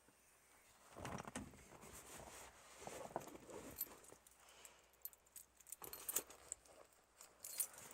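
A bunch of keys jangling, with scattered light clicks and rattles that come and go, busiest about a second in, around three seconds and toward the end.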